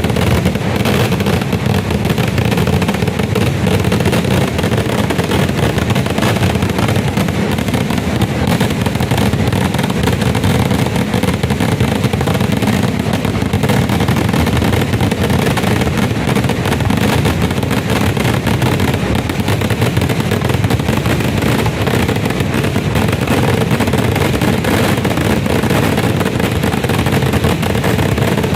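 Festival firecrackers going off in a continuous rapid barrage, a dense unbroken crackle of bangs with no pauses between them.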